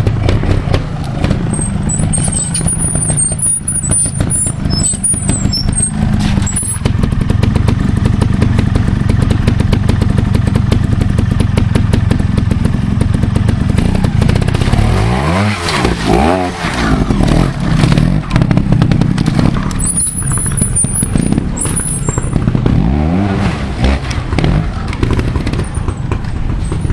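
Trials motorcycle engine running at low revs, with quick throttle blips that rise and fall in pitch about halfway through and again near the end as the bike is ridden through an observed section.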